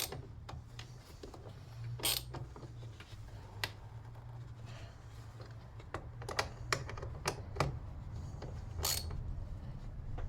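Scattered clicks and metal clinks of hand tools tightening a clamp on a car's negative battery terminal, over a steady low hum.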